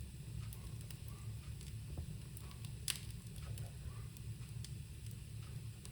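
Small ritual fire burning with scattered sharp crackles, the loudest about three seconds in, over a steady low hum.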